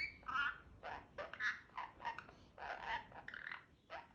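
Pet talking parrot chattering softly in a quick string of short, mumbled, speech-like syllables.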